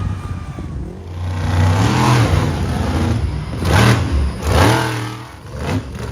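Monster truck engine revving hard several times, its pitch climbing and dropping with each rev; the loudest surges come about two, four and four and a half seconds in.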